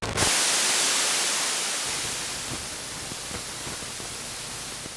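Steady static-like hiss, bright and strongest in the treble, slowly fading over several seconds with faint crackling underneath from about two seconds in.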